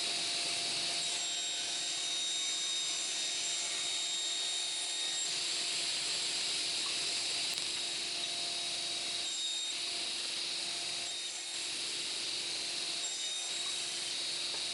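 Table saw running steadily with a high whine as small pieces are cut on its sliding table.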